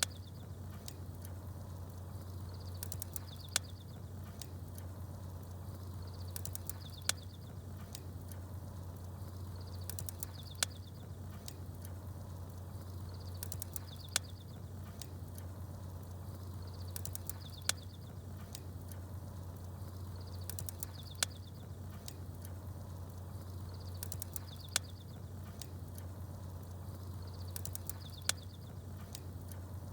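Campfire crackling with sharp pops, and small birds chirping in short high bursts, over a steady low rumble. The pops and chirps come back in the same pattern about every three and a half seconds, like a short repeating loop.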